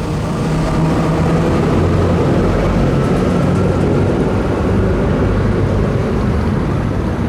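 Heavy motor vehicle engine running close by, loud and steady with a low hum, rising a little in the first second.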